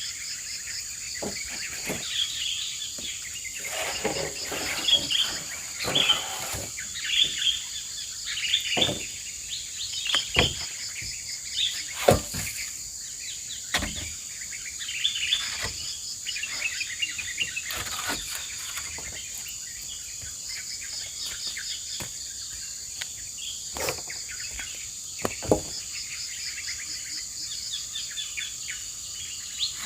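Forest ambience: a steady high-pitched insect drone with birds chirping throughout, and scattered sharp knocks now and then.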